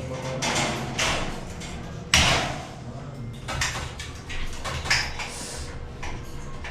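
Metalwork on steel ceiling framing: a run of irregular scrapes and knocks, with one loud clang about two seconds in.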